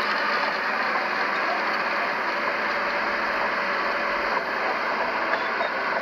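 Shantui bulldozer working sand, its engine and running gear making a steady, dense mechanical noise.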